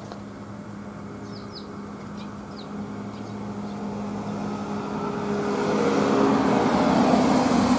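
A car passing on a nearby road, its engine and tyre noise swelling steadily to a peak near the end. A few short bird chirps sound about one and a half to three seconds in.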